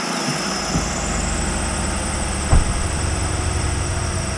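Ford Explorer engine just started and running steadily, its low rumble building over the first second after the cranking stops. A single sharp knock comes about two and a half seconds in.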